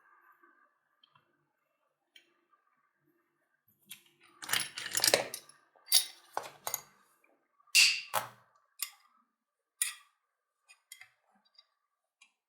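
Clicks and light metallic clatter of tools and parts being handled on a workbench. A run of louder knocks and rattles comes in the middle, with single clicks after it.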